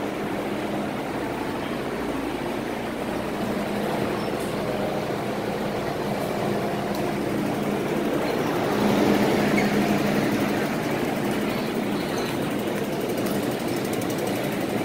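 MTR M-Train electric multiple unit heard from on board: steady running noise with a low electrical hum, swelling louder about nine seconds in.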